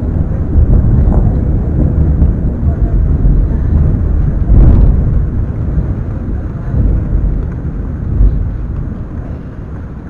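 Thunder rumbling low and heavy. It swells to its loudest about four and a half seconds in, then slowly dies away.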